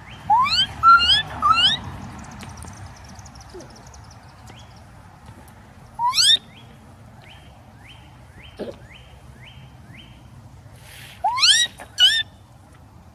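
A person whistling loud, rising cardinal-style slurs in three short bursts. In between, a northern cardinal answers faintly from a distance with a steady series of short repeated song notes, about two a second.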